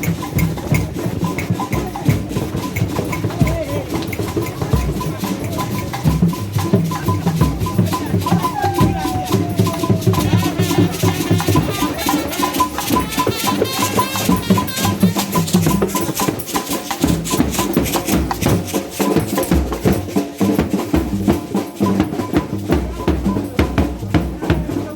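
Percussion-led music with drums, wood-block clicks and shaken rattles in a fast, steady beat, with voices mixed in.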